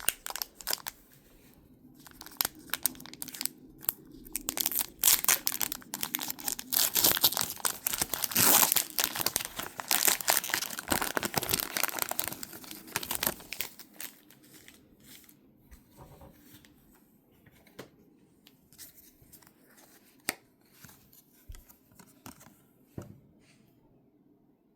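Pokémon booster pack foil wrappers being torn open and crinkled by hand, loud and dense for the first half. It then gives way to sparse small rustles and clicks of cards being handled.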